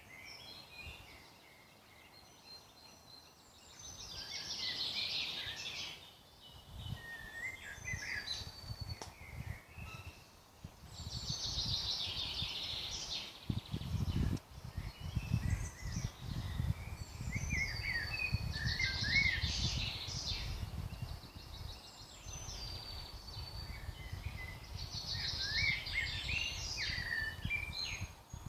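Woodland songbirds singing: a bright song phrase of about two seconds repeats every six or seven seconds, with other birds' shorter chirps and whistles in between. A low rumble runs underneath from about halfway through.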